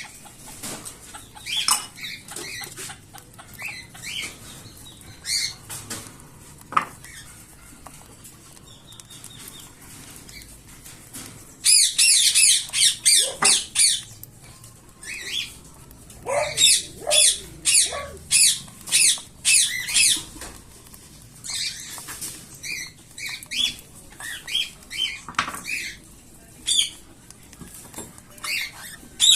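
Young cockatiel chicks giving raspy, high-pitched begging calls while being fed, with two loud runs of rapid calls at about four a second near the middle.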